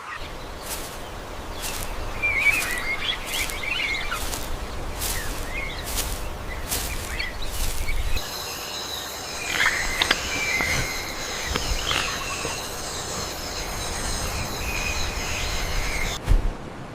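Rainforest ambience with birds chirping. In the first half there is a regular series of short high chirps over a low rumble. From about halfway there is a steady high-pitched buzz under the calls, and a brief thump comes near the end.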